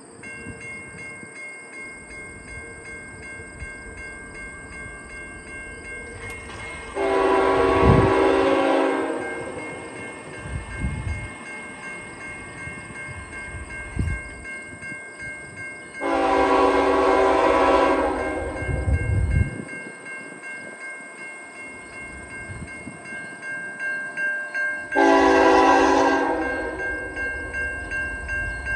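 CN GEVO locomotive's Nathan K5HL five-chime air horn sounding two long blasts and then a short one, the start of the grade-crossing signal as the train approaches. The long blasts come about seven and sixteen seconds in, and the short one about twenty-five seconds in.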